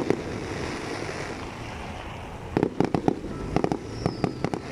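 Fireworks going off: a couple of sharp bangs at the start, a lull, then rapid clusters of cracking bangs about two and a half seconds in and again near the end.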